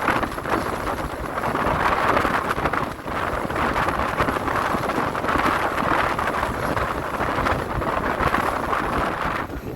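Wind rushing over the microphone over the running noise of a moving passenger train, steady with uneven surges.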